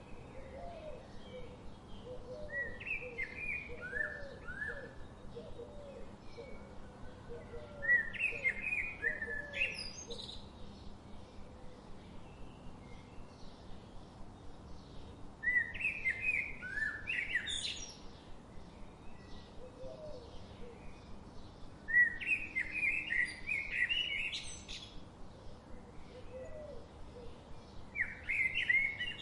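Songbird singing short phrases of quick chirps about every six seconds, each phrase ending in a sharp rising note, with softer, lower chirps repeating through the first ten seconds over a faint steady hiss.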